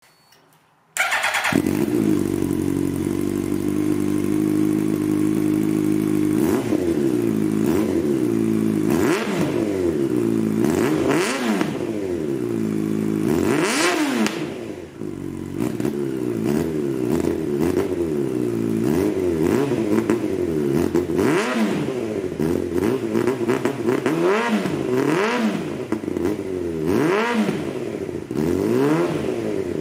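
2003 Yamaha YZF-R1 inline-four sport-bike engine idling, then blipped over and over, the revs climbing sharply and dropping back many times.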